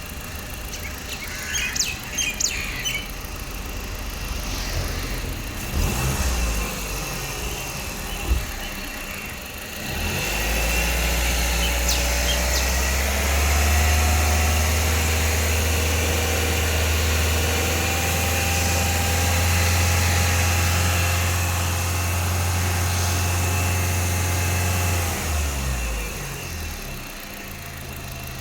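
Ford Figo engine idling, then raised in speed at about ten seconds and held at a steady higher speed for about fifteen seconds before dropping back to idle.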